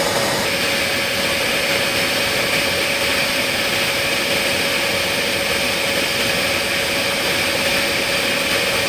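Steady cockpit noise of a jet aircraft in flight: engine and airflow noise with a constant hum, as picked up on the crew's intercom audio. A brighter high-pitched hiss joins about half a second in.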